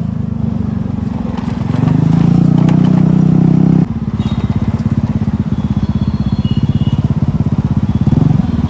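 Scooter's small engine running on the move, its note louder for a couple of seconds and then dropping suddenly about four seconds in to a slower, pulsing beat.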